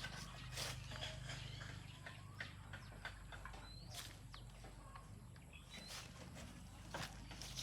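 Faint scattered light clicks and knocks, with a few short chirps, over a steady low hum.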